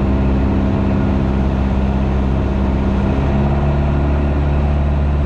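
Piper PA28's piston engine and propeller droning steadily at approach power, heard through the cockpit headset audio; the engine note shifts slightly about three seconds in.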